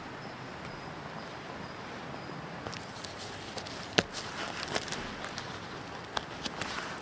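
A steady hiss with scattered sharp snaps and clicks starting a little before halfway through, one clearly louder than the rest about four seconds in.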